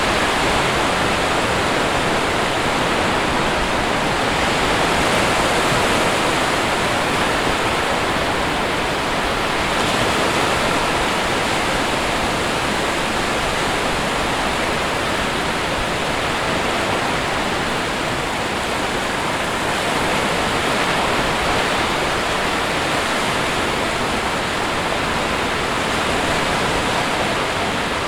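Sea surf: a continuous wash of waves breaking on a shore, swelling slightly now and then.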